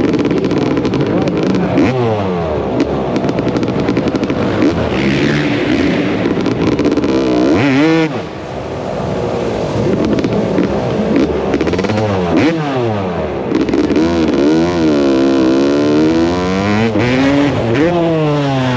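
Motocross bike engines revving hard, rising and falling in pitch again and again as the throttle is worked, with a brief lull about eight seconds in.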